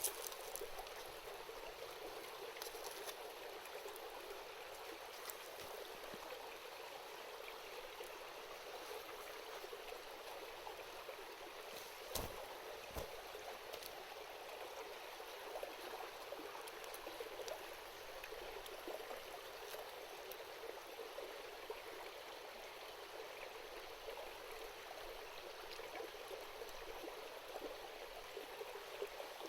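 A small river or stream babbling steadily, with a couple of sharp clicks about twelve seconds in.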